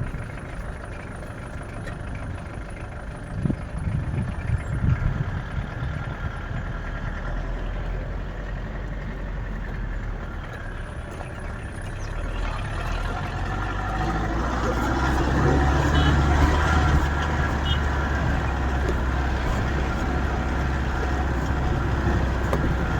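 A motor vehicle's engine running steadily, growing louder about halfway through.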